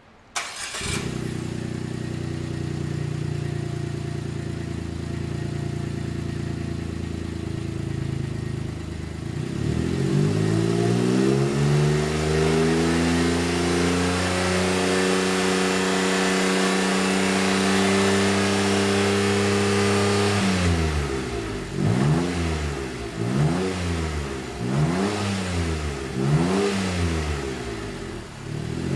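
Suzuki Every Wagon's 660 cc turbocharged three-cylinder engine starting about half a second in and idling steadily through a one-off aftermarket exhaust with a single silencer. About ten seconds in the revs rise and are held higher, then near the end the throttle is blipped several times in quick succession.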